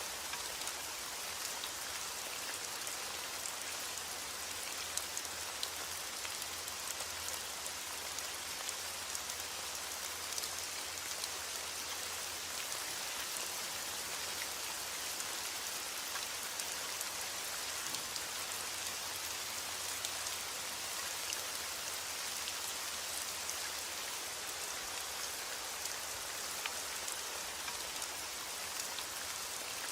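Steady heavy rain falling on a surface, an even hiss with many small drop ticks.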